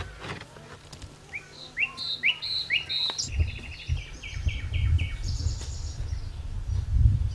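Songbirds chirping in quick runs of short, repeated notes. From about three seconds in, a low rumbling noise sits underneath, with a sharp knock just before it starts.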